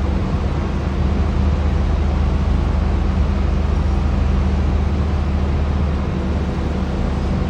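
Heavy construction machinery's engine running steadily, a loud low hum over a noisy background.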